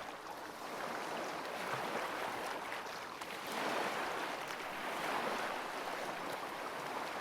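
Recorded ocean waves washing in, a steady rush that swells and ebbs slowly every second or two.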